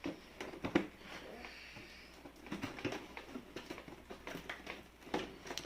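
Scattered light clicks and taps of hands handling a cardboard toy box and its packaging, with faint voices in the background.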